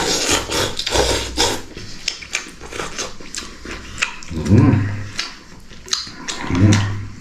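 A man slurping and chewing hot instant noodles, with many short wet clicks and smacks. He makes two short low voiced sounds, one about halfway through and one near the end.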